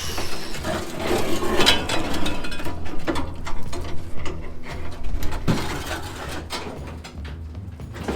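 Irregular mechanical clicking and metal knocks from tools at work on an old truck's body, as cab and panels are being stripped from the chassis.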